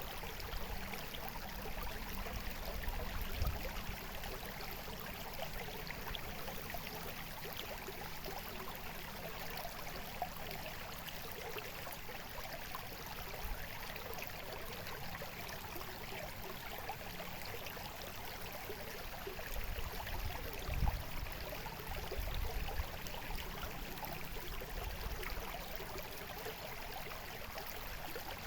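Water babbling and trickling steadily, like a small stream, with a couple of brief low rumbles, one about three seconds in and another about two-thirds of the way through.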